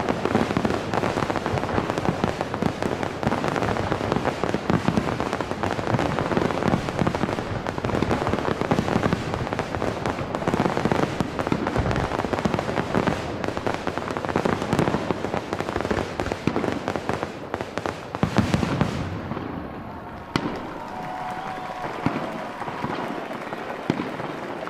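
Fireworks finale: a dense, continuous barrage of bangs and crackling, with a last loud burst about eighteen seconds in, after which it falls away to a thinner, quieter crackle.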